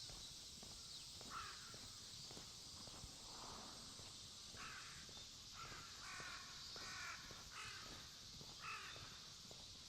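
Crows cawing: a series of about eight short, harsh caws spread over several seconds.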